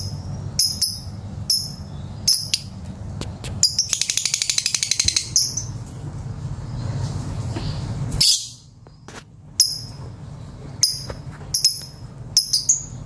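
Lovebird calling: short, sharp high chirps repeated every half second or so, with a rapid chattering trill of about a dozen pulses a second lasting a second and a half about four seconds in. A low steady hum sits underneath.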